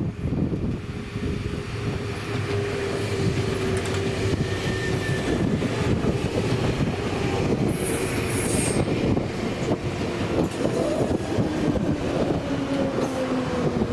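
Nankai 6000 series electric train running on the track: a steady rumble of wheels on rail with a thin whine that slowly falls in pitch, and a second, lower falling tone joining in the last few seconds.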